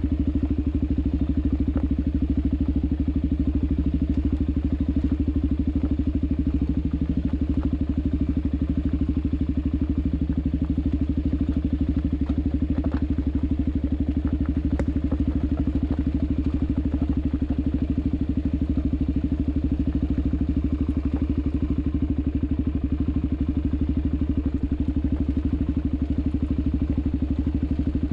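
Suzuki DR-Z400SM's single-cylinder four-stroke engine running at a steady, even pace at low trail speed. A few faint clicks and knocks from the bike jolting over the rocky dirt trail.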